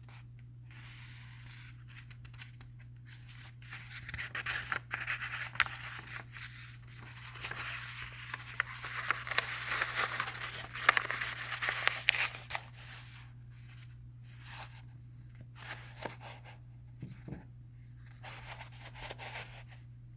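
Irregular scratching and rustling of paper close to the microphone, busiest in the middle of the stretch, over a steady low hum.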